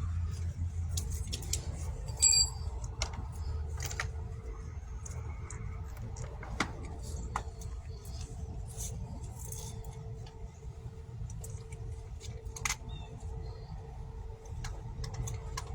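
Low rumble of a car with a faint steady hum, scattered light clicks and rattles, and one short ringing clink about two seconds in.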